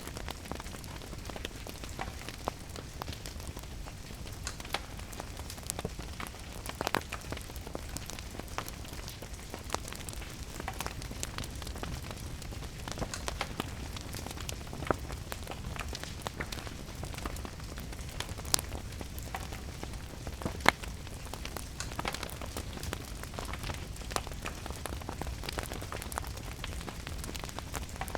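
Wood fire crackling in a fireplace with scattered sharp pops, one louder pop about twenty seconds in, over a steady patter of rain.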